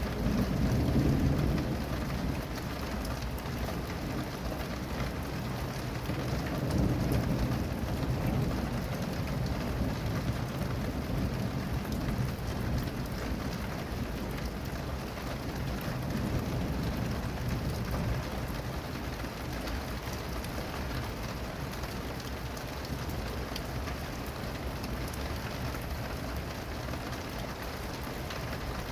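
Steady rain falling, with low rolls of thunder that swell and fade several times, the loudest about a second in.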